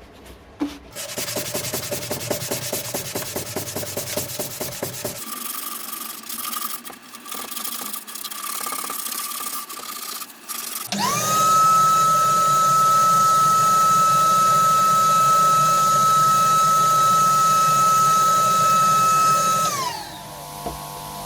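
Rhythmic rubbing strokes on wood, then a small electric power tool motor spins up, runs with a steady high whine for about nine seconds, and winds down near the end.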